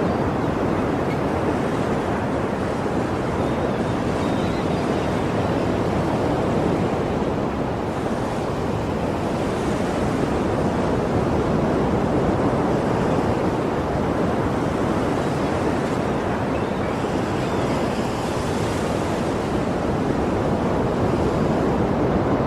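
Sea waves breaking and washing on the shore in a steady, continuous wash of surf, swelling gently now and then.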